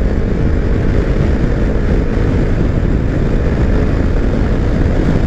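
Heavy wind noise on the microphone while riding a Kawasaki Versys-X 300 in strong gusty wind, with the bike's small parallel-twin engine running steadily underneath.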